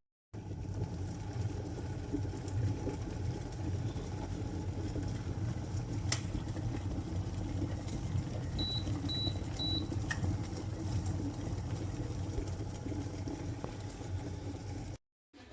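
Glass electric kettle heating water with a steady low rumble. There is a click about six seconds in, then three short high beeps in quick succession like the kettle's control panel, and another click about ten seconds in.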